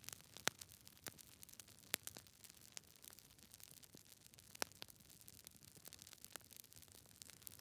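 Wood fire burning in a fireplace, the logs crackling with irregular sharp snaps and pops over a quiet hiss; the loudest snaps come about half a second in, around two seconds, and a little past four and a half seconds.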